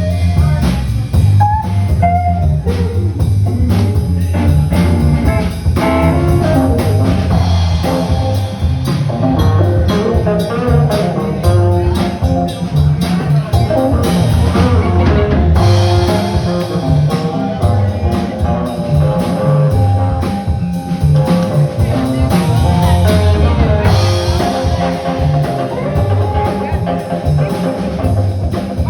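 Live band playing an instrumental passage with guitar, a deep bass line and a drum kit keeping a steady beat.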